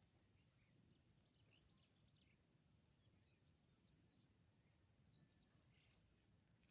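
Near silence: a faint, steady high insect buzz and trilling, with a few faint short bird chirps.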